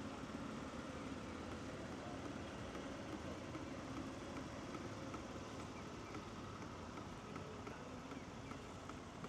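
Steady outdoor city ambience: an even hum of distant traffic with faint scattered ticks.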